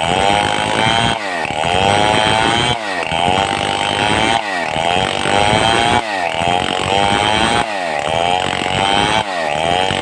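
Stihl 070 two-stroke chainsaw cutting a mahogany log under load. Its pitch drops and climbs back about every second and a half.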